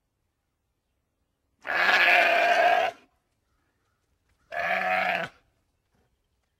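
Sheep bleating twice: a long bleat of over a second, then a shorter one about three seconds in.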